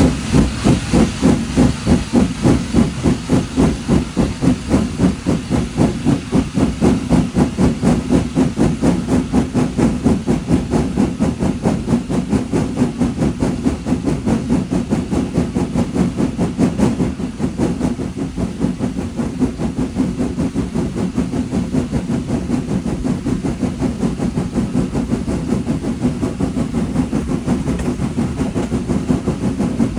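Steam locomotive working hard, its exhaust chuffing in a steady rhythm of about three to four beats a second, a little softer in the second half.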